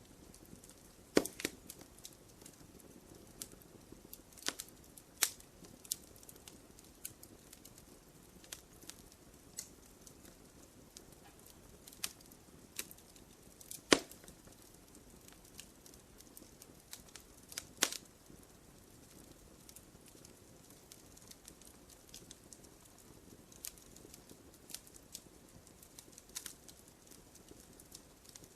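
Fireplace fire crackling: irregular sharp pops and snaps over a soft low hiss, with the loudest pop about halfway through.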